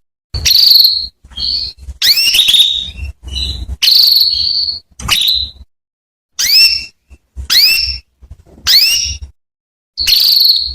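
Female domestic canary giving a string of short rising call notes, about one a second, some ending in a brief held whistle, with clean silent gaps between them. These are the female calls used as a lure to set male canaries singing.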